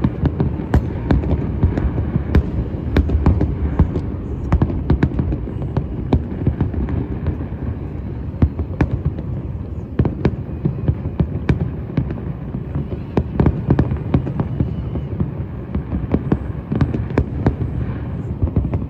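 Fireworks going off: an irregular string of sharp bangs and pops, often several a second, over a continuous low rumble.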